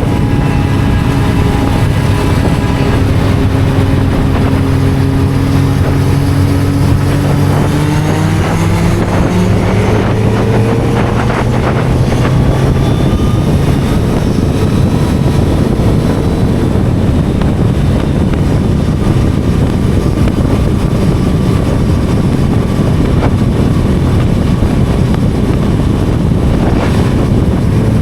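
Inline-four sport motorcycle engine running at speed on the road, with wind buffeting the microphone. The engine note holds steady, then rises over a few seconds under acceleration before merging into wind and road roar.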